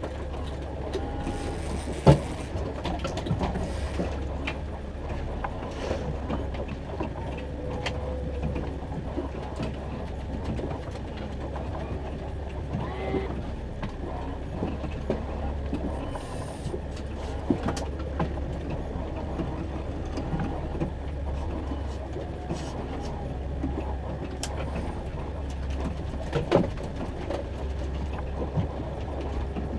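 Boat motor running steadily at trolling speed as a low hum, with scattered knocks and clatter of fishing gear handled on deck; one sharp knock about two seconds in is the loudest.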